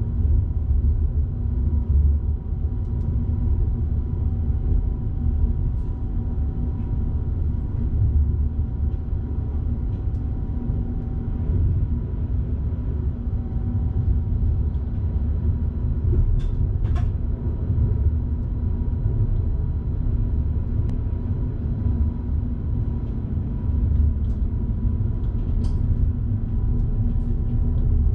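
Electric train running along the line, heard from the driver's cab: a steady low rumble with a faint steady whine, and a few sharp clicks about halfway through and again near the end.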